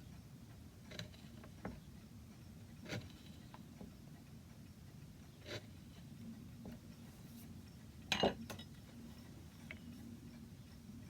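Occasional light knocks and taps of hand tools and wood at a workbench as a lime wood repair piece is pared with a chisel and tried in its socket, with a louder double knock about eight seconds in. A low steady hum underneath.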